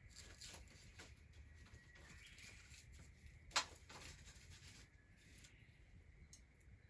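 Near silence with a few faint ticks and one sharp click about three and a half seconds in.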